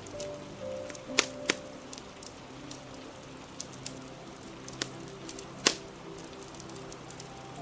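Crackling fire with scattered sharp pops, the loudest a little over a second in and again near six seconds, over a steady hiss of rain and soft background music.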